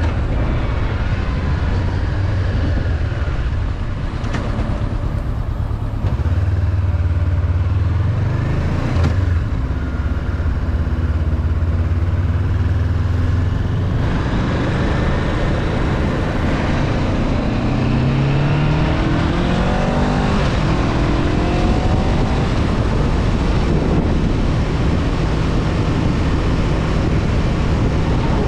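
Honda CB500F's parallel-twin engine running at a steady cruise with wind rush, then revving up, its pitch rising in a couple of steps about two-thirds of the way through as the bike accelerates.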